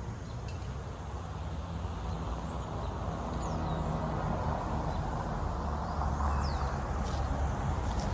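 Diesel switcher locomotive approaching, its engine rumble and rolling noise growing steadily louder, with a few bird chirps above it.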